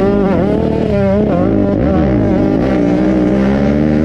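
Several pit bike engines running at once, overlapping. One holds a steady note while others climb and fall in pitch as the riders open and close the throttle.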